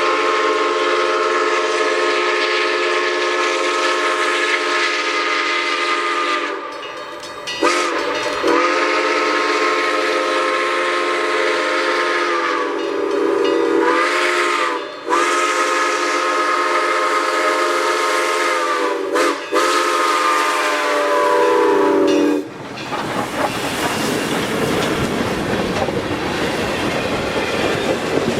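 Chime steam whistle of Iowa Interstate 2-10-2 No. 6988 sounding four long blasts, each several seconds, the last cut off about 22 seconds in. Then the train rolling past with the rumble and clatter of its wheels on the rails.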